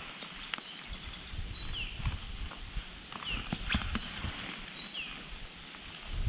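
A bird repeating a short two-part call about every second and a half: a brief high note followed by a quick downward slur. Beneath it run an irregular low rumble and occasional rustles and knocks.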